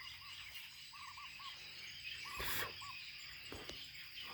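A bird calling twice in short runs of three or four quick arched notes, over a steady high insect drone, with a brief rustle partway through.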